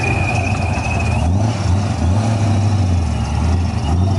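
A car engine running with a low drone that shifts in pitch, and a steady high whine that stops about a second in.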